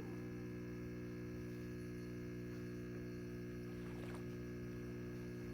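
Gevi 15-bar espresso machine's pump running steadily, a constant buzzing hum as it pushes water through the coffee while pulling a shot.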